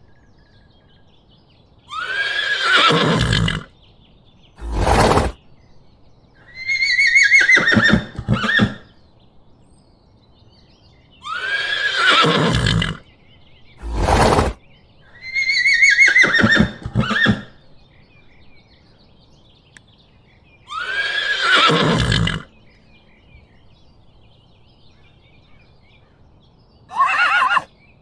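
Horse neighing and whinnying. Each neigh rises and falls in pitch and is followed by a longer wavering whinny that falls away, with short sharp sounds between the calls. The same sequence repeats three times, about every nine seconds.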